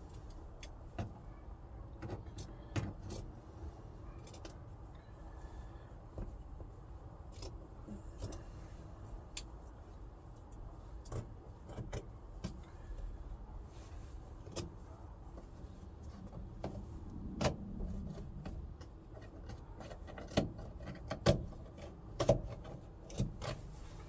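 Scattered clicks and knocks from hands handling parts and tools, over a low rumble, with a few louder knocks near the end.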